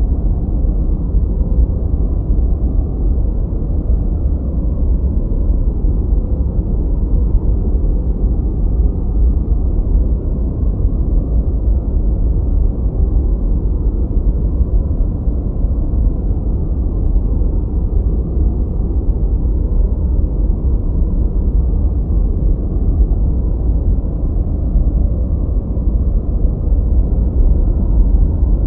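Continuous synthetic noise, perfectly steady: a deep, even rumble with almost nothing in the high range, closer to brown noise than to hissing white noise.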